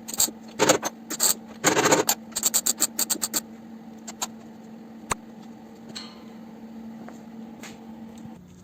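Car-body welding: a quick run of short crackling tack welds, then quiet apart from a steady electrical hum that cuts off near the end and a single sharp click in the middle.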